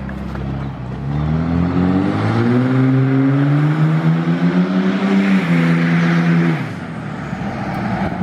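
Straight-piped Chevy 1500 V8 exhaust revving: the note climbs steadily for about four seconds, holds briefly, then drops back to idle a little over six seconds in.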